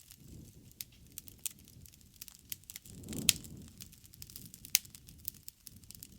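Wood bonfire crackling and popping, with irregular sharp snaps over a low rush of flame. The flame noise swells about halfway through with a loud pop, and another loud pop comes a little later.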